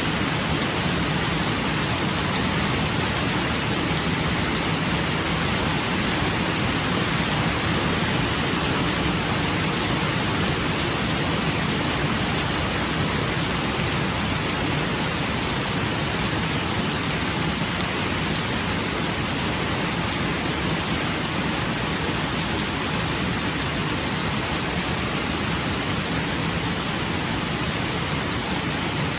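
Steady rain falling, an even, unchanging hiss with no thunderclaps.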